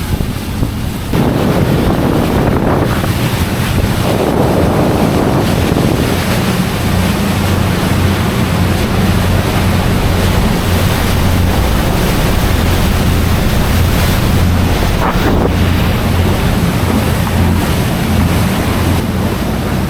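Princess 435 motor yacht under way at speed: steady engine drone and rushing water along the hull, with wind buffeting the microphone. The noise jumps up about a second in and then holds steady.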